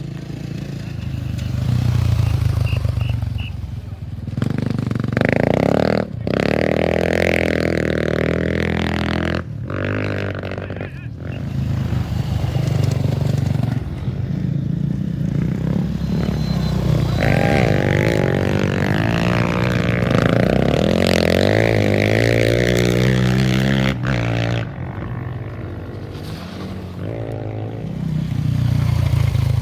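Off-road race bike engines revving hard and passing by, pitch climbing and falling with the throttle, in several short clips cut abruptly one after another.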